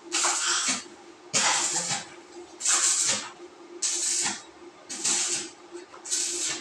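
Power sprayer hissing in six short, evenly spaced bursts, about one a second, over a steady hum.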